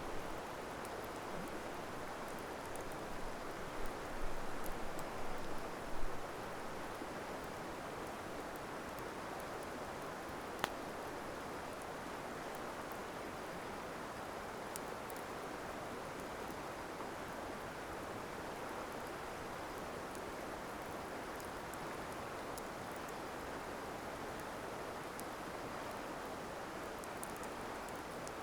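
Wood fire burning, with faint scattered crackles and one sharp pop about ten seconds in, over a steady rushing hiss. A few louder bumps come in the first six seconds.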